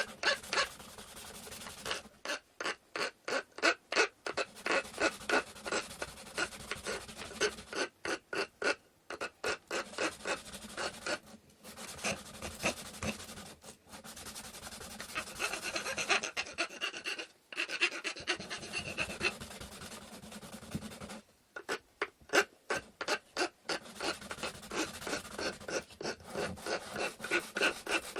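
A wooden stick being worked by hand with an abrasive, rasping back and forth at about three to four strokes a second, in runs broken by several short pauses.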